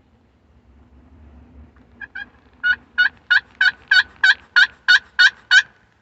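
Turkey call run through a yelping sequence: two short notes, then a loud string of about ten evenly spaced yelps, about three a second, that stop shortly before the end.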